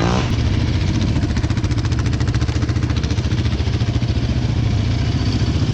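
Dirt bike engine idling steadily close by, a fast even putter that holds one pitch without revving.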